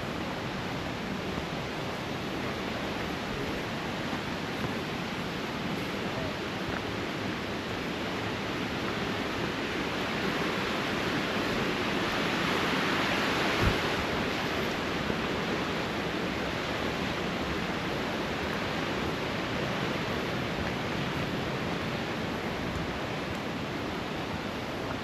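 Creek water rushing steadily, swelling a little louder around the middle, with one brief knock about fourteen seconds in.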